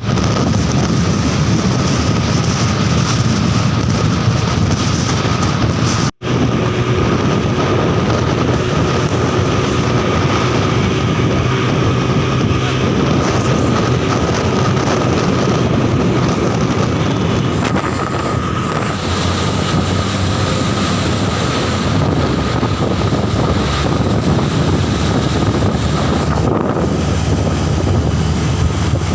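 Heavy road traffic, truck engines running with steady tyre and road noise. The sound cuts out briefly about six seconds in.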